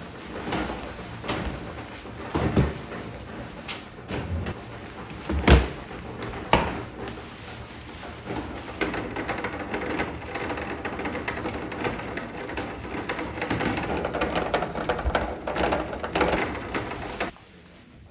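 Household handling sounds: a few sharp knocks and clunks, like a cupboard door or objects being set down, then about nine seconds of dense rustling or scraping that stops abruptly near the end.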